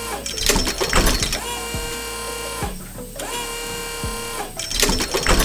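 Machine sound effects: a steady motor whine that rises briefly as it starts, broken twice by a rapid clattering, near the start and near the end.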